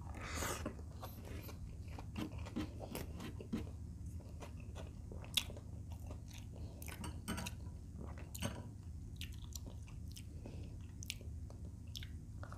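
Close-up chewing and biting of fried chicken breast and rice eaten by hand, with irregular small mouth clicks throughout and a louder bite about half a second in. A low steady hum runs underneath.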